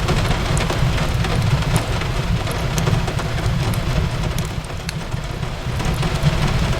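Steady rain hissing against a window, mixed with a crackling wood fire: scattered sharp pops and crackles over the constant rain and a low rumble underneath.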